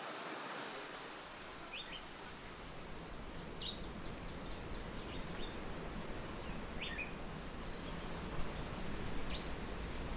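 Nature ambience: an insect's steady high-pitched trill holds throughout, with short, sharp bird chirps scattered through it over a soft background hiss.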